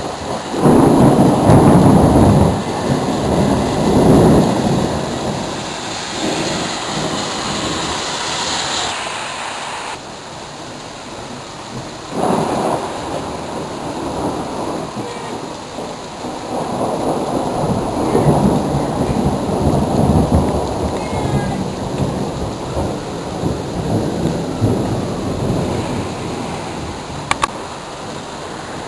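Thunder rolling in two long rumbles, the first starting just after the opening and the second about midway, each swelling and fading over several seconds, over a steady hiss of rain.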